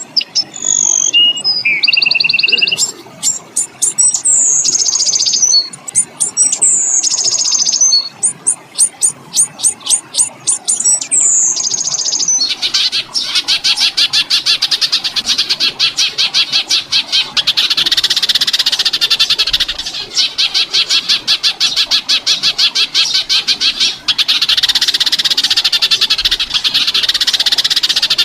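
Recorded songbird song: sharp downward-sweeping whistles and quick rattling click series, then from about twelve seconds in a long, fast, rattling trill, broken only briefly a few times.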